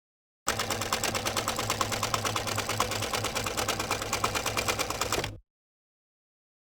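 A rapid, even mechanical rattle of many clicks a second over a low steady hum, lasting about five seconds and stopping abruptly.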